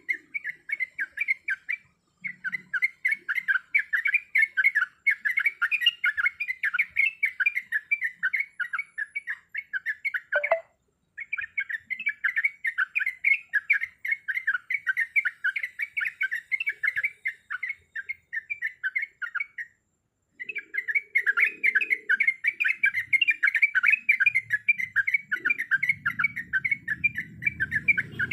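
Yellow-vented bulbul (trucuk) chattering a rapid, unbroken run of bubbly notes in long bouts with short breaks, the calling used to set a male trucuk singing.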